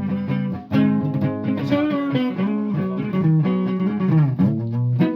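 Guitar being played, a continuous run of plucked and strummed notes, with a short break just before the first second and notes that slide in pitch a couple of times.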